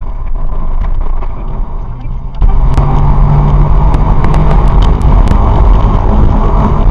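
Car driving, heard inside the cabin: a steady low drone of engine and road noise, with scattered light clicks. It gets noticeably louder about two and a half seconds in.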